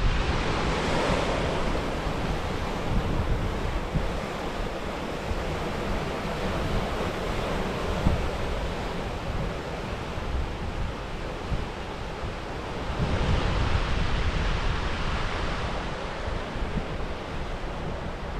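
Sea waves washing onto a rocky shore with wind buffeting the microphone; the surf swells up about a second in and again about thirteen seconds in.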